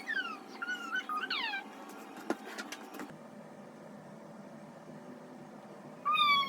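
Large dog whining in high, falling cries: several in the first second and a half, then again near the end, with a few sharp clicks in between.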